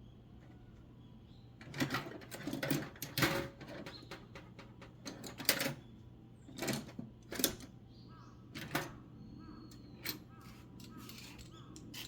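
Irregular bursts of sharp clicking and clattering, like hand tools and small parts being handled, from about two to nine seconds in.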